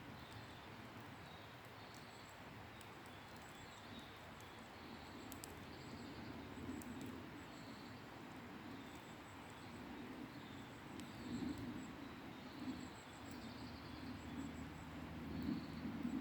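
Wood campfire burning faintly, with scattered sharp crackles and pops and a low rushing sound that swells from about six seconds in. Short high chirps repeat every second or two over it.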